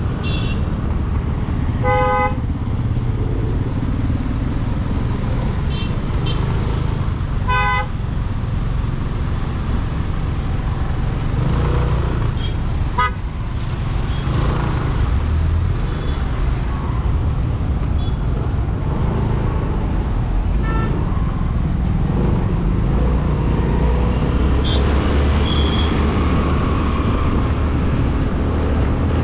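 Steady road and wind noise from a motorcycle riding through traffic, with short vehicle horn honks, the two clearest about two and eight seconds in and fainter toots later.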